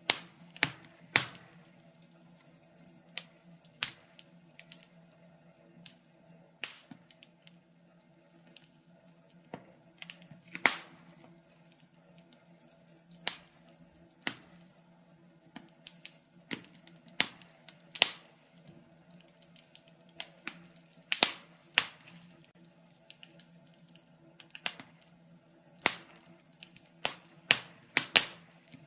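Wood fire in a fireplace crackling, with irregular sharp pops and snaps a few times a second over a faint steady hum.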